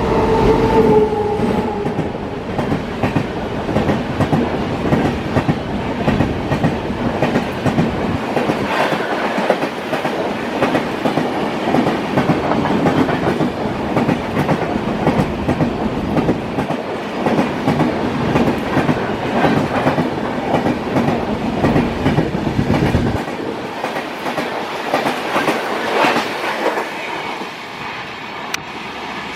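Indian Railways express train running past on the tracks: a long, continuous clatter of its coach wheels over the rail joints, easing off slightly near the end.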